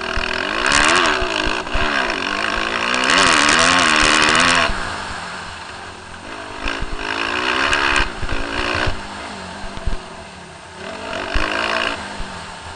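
Suzuki RM-Z250 motocross bike's single-cylinder four-stroke engine revving hard and easing off over and over, rising in pitch through each gear and dropping as the throttle closes; loudest a few seconds in.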